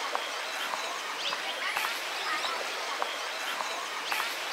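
Birds chirping in short scattered calls over a steady outdoor hiss.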